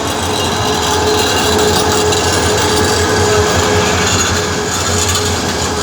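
A train running on the rails, a loud, steady noise with a faint steady tone running through it.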